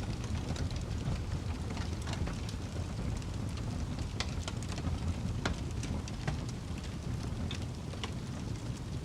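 Crackling fire: a steady low rumble of flames with irregular sharp pops and snaps from the burning wood.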